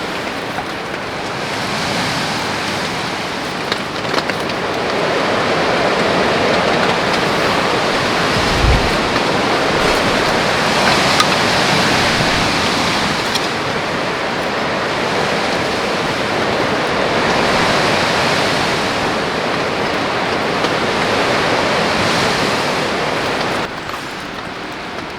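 Heavy rain and gusting wind in a mountain storm, a dense rushing hiss that swells and eases every several seconds, with scattered drop taps and one low thud. It drops suddenly to a quieter rain near the end.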